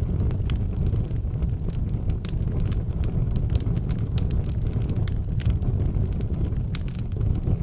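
Wood fire burning in an outdoor fireplace: a steady low rumble of the flames with scattered sharp crackles and pops, several a second.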